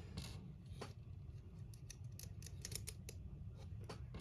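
Small screwdriver driving a tiny screw into plastic model-kit parts: faint, irregular clicks and light scrapes, with a quick run of them about two to three seconds in, over a steady low hum.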